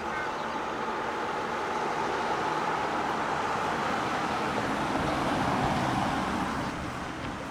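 A road vehicle driving past: engine and tyre noise grow louder, peak with a low rumble about five to six seconds in, then fall away near the end.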